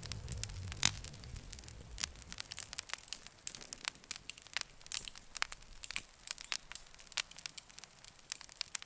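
Campfire crackling, with many irregular sharp pops and snaps. A low rumble under the crackling fades away about two seconds in.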